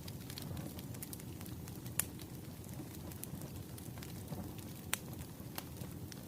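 Bonfire crackling over a low steady rush, with scattered sharp pops, the loudest about two seconds in and again near five seconds.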